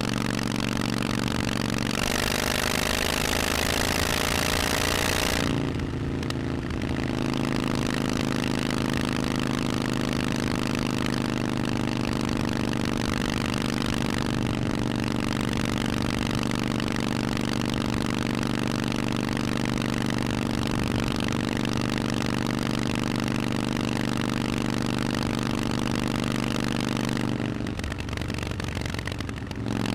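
Harley-Davidson Forty-Eight's air-cooled V-twin running through Vance & Hines aftermarket exhausts. Its pitch falls in the first few seconds, then it runs at a steady low speed, likely idling, with a brief change near the end.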